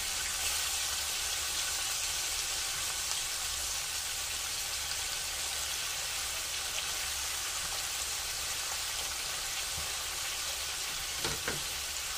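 Floured pork neck bones frying in oil in a skillet, a steady sizzle, with now and then a light click of a fork turning the pieces in the pan.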